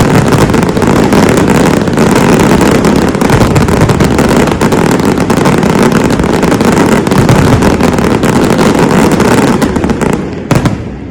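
Fireworks going off in a dense continuous barrage, many bursts and crackles overlapping. It starts abruptly, dies away about ten seconds in, and a couple of last cracks follow.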